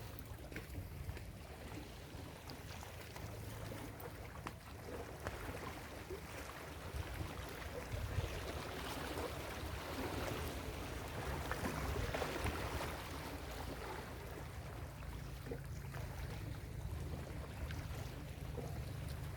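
Ocean surf washing onto a beach: a wave swells to its loudest about ten to twelve seconds in, then eases off, over a constant low rumble.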